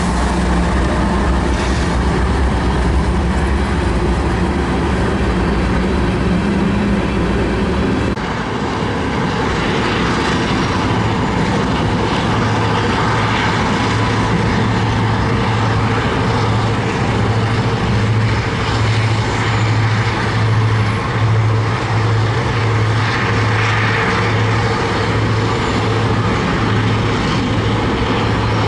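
Train passing close by: a low diesel engine drone that drops away about eight seconds in, then the steady rumble of rolling railcars with a regular pulsing beat.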